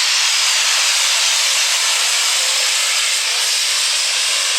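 Super stock diesel Dodge pulling truck running hard under load during a pull, a steady loud rushing hiss of engine and turbo noise.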